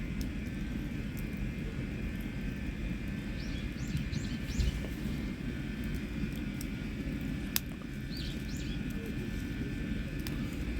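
Wood campfire burning, with scattered small crackles and one sharp pop about seven and a half seconds in, over a steady low rumble. A bird chirps a few times around four seconds in and again near eight seconds.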